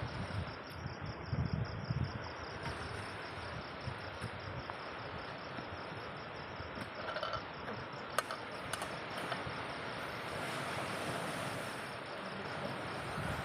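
Insects chirping in a fast, even pulse over a steady background hiss, with a few light clicks about eight seconds in.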